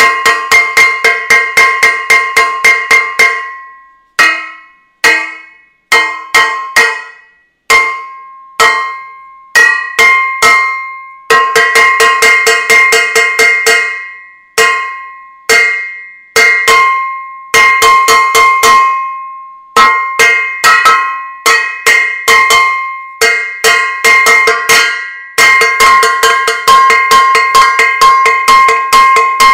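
Metal saucepan being banged over and over, each strike ringing with a clear metallic tone that dies away. Quick runs of hits alternate with slower, spaced single strikes.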